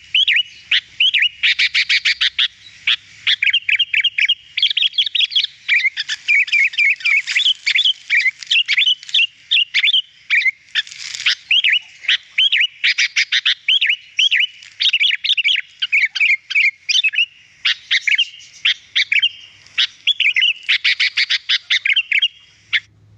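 Sooty-headed bulbul (kutilang) singing without pause: fast runs of bright chirps and short warbled phrases. The song cuts off abruptly near the end.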